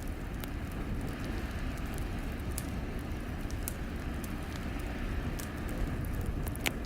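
Crackling wood fire: a steady low rush with scattered sharp pops and snaps, one louder pop near the end.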